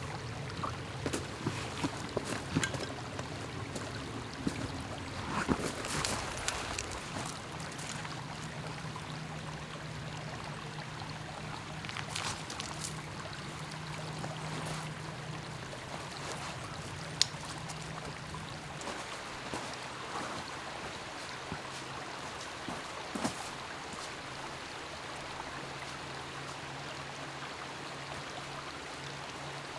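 Water trickling and lapping at a lake shore, with scattered small clicks and a steady low hum underneath that shifts slightly in pitch twice.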